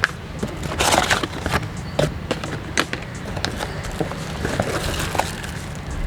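Packaging being handled: crinkling and rustling with irregular clicks and knocks, loudest about a second in, over a steady low rumble.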